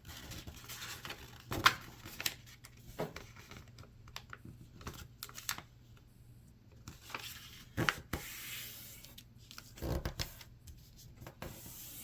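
A sheet of paper being folded and creased by hand: rustling and sliding, with several sharp crackles, the loudest about a second and a half in, and a longer rub along the crease near eight seconds.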